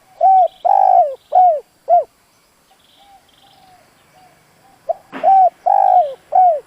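Spotted dove cooing its territorial call: two phrases of four deep, arched coos, the second coo of each the longest, the phrases about five seconds apart. This is the decoy dove's call, used to provoke wild doves into answering. Faint high chirps of small birds sound between the phrases.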